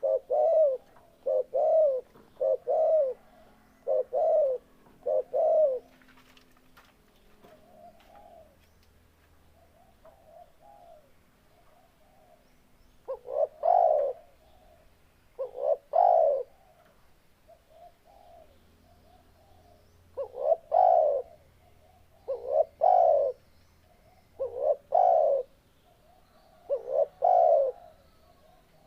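Spotted dove (tekukur) cooing: a quick run of low coos, then softer coos, then louder phrases of two or three coo notes repeated every couple of seconds.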